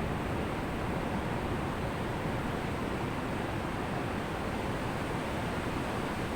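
Ocean surf washing on a beach as a steady, even rush of noise, with no single wave breaking standing out.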